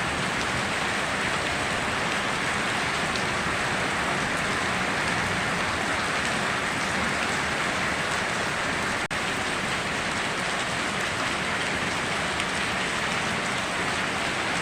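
Steady rainstorm, an even hiss of heavy rain with no let-up, broken only by a momentary dip in level about nine seconds in.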